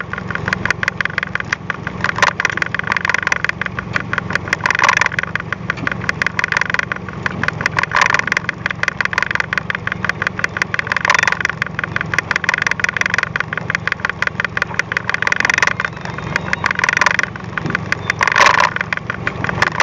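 Boat engine idling with an even, rapid ticking. A brief louder rush comes every two to three seconds.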